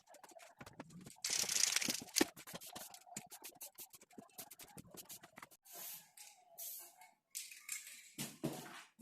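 Hand work on the cabinets: scattered clicks and knocks, a loud rustling scrape lasting about a second near the start, and shorter scrapes and rustles later.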